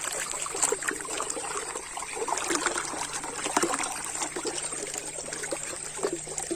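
Water trickling and splashing irregularly, with small wet clicks, as a mud-covered toy is rinsed clean.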